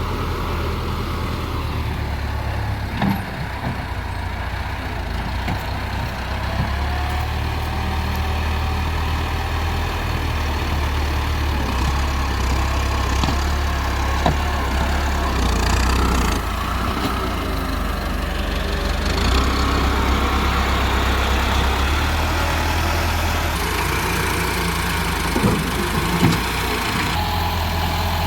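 Heavy diesel engines of a JCB loader and a tractor running, the engine note rising and falling as the machines work, with a few short knocks.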